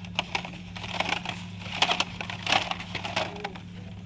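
Irregular clicks and crinkling of plastic-and-card blister packs of die-cast cars being handled on store pegs, thickest about two seconds in, over a steady low hum.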